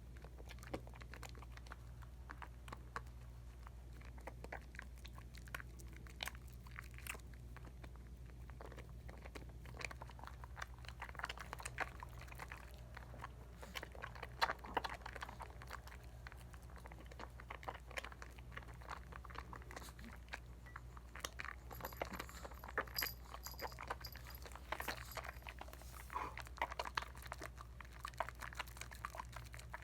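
Bar of Dial coconut soap worked into a lather with wet hands: soft, irregular wet squishing and crackling of suds, busier from about ten seconds in.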